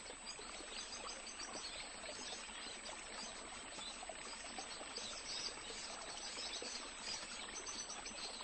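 Faint, steady outdoor ambience: an even hiss with tiny scattered ticks.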